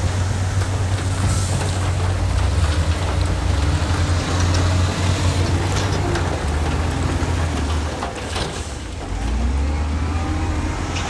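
Heavy diesel engine of earthmoving machinery running under load with a deep, steady rumble. It eases briefly about eight seconds in and then picks up again, with a few light clanks over it.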